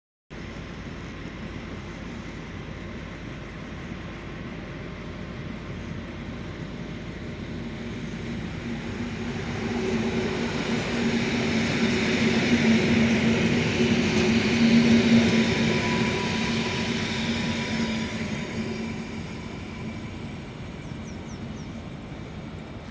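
Electric multiple unit passing close by: a steady hum of held tones over rolling wheel-and-rail noise, swelling about ten seconds in, loudest a few seconds later, then fading.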